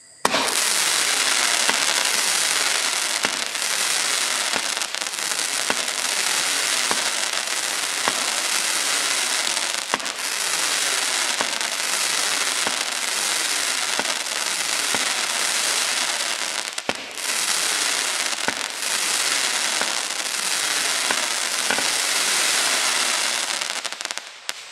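A 19-shot consumer firework barrage cake firing shot after shot with crackling tails. The sound is a dense, continuous crackle, with the thud of each launch showing through it. There are two brief lulls in the second half, and the crackling dies away near the end.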